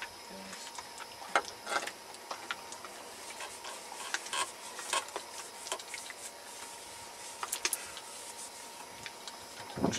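Scattered light clicks and taps of hands at work, over a faint steady tone.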